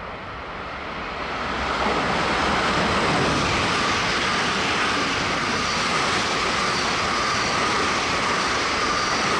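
A long JR West electric multiple-unit train passing close by. Its running noise builds over the first two seconds, then holds steady with a high whine above the wheel rumble as the cars go by.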